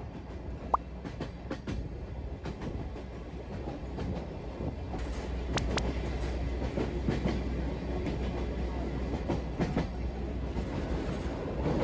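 Sightseeing train running over the track, heard from aboard an open-sided car: a steady rumble of the wheels with irregular clacking over the rail joints, growing a little louder partway through.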